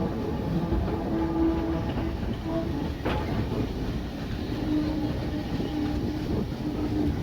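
Steam-hauled heritage passenger train running along the line: a steady rumble of wheels on rail, with a low steady tone coming and going and one sharp click about three seconds in.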